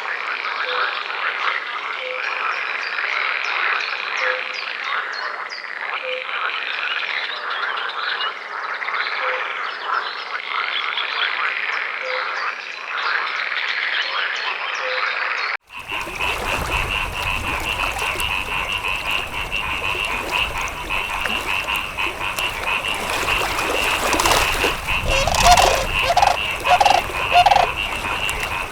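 A dense chorus of frogs calling, with overlapping arching calls repeating every second or so. About halfway through it cuts abruptly to another chorus: a steady pulsing high trill with a few lower croaks near the end.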